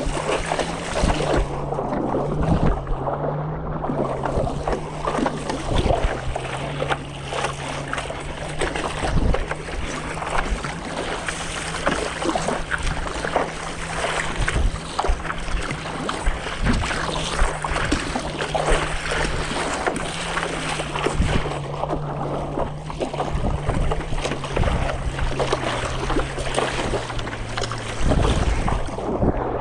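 Water splashing and sloshing on the open sea with wind on the microphone, over a steady low engine hum that shifts slightly in pitch.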